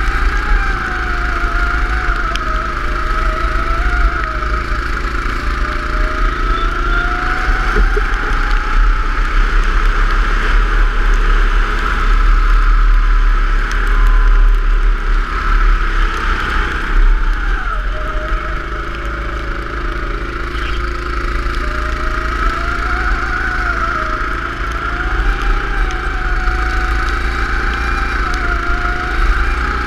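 Go-kart engine running at speed, its revs rising and falling every few seconds, with a sharp drop in revs about halfway through. A steady low rumble sits under it.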